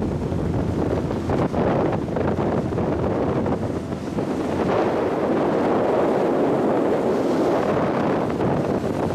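Wind buffeting the microphone on the deck of the high-speed passenger ship Sun Liner 2 under way, over a steady rush of the ship's engines and water along the hull.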